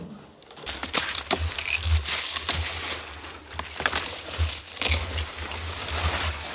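Continuous crunching and crackling with many small sharp cracks, starting about half a second in.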